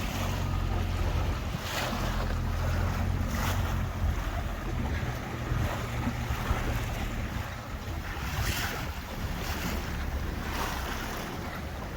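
A tour boat's engine running steadily as a low drone, with water rushing and splashing along the hull in surges every second or two and wind buffeting the microphone.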